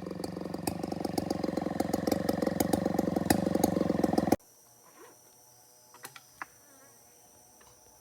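Stihl 070 chainsaw's two-stroke engine running steadily with a rapid rattle of clicks, then cut off suddenly about four seconds in. After that, insects chirping in steady high tones in a quiet forest background, with a few faint clicks.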